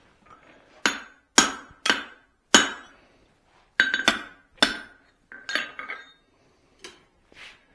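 Hammer blows on hot steel at the anvil as a forged cross peen hammer head is being adjusted: about ten sharp metallic strikes in uneven groups, each with a brief ring, the last two lighter.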